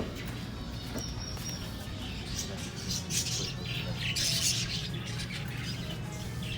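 A large group of budgies chirping and chattering, busiest about two to five seconds in, over a steady low hum.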